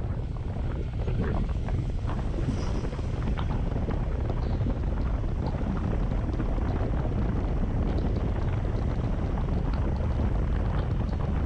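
Wind buffeting an action camera's microphone on a moving Honda CB150X motorcycle: a steady low rumble, with the engine running underneath it.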